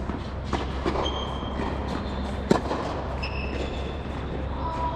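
Tennis balls being struck with rackets during a drill: a few sharp pops, the loudest about two and a half seconds in, over a steady low hum.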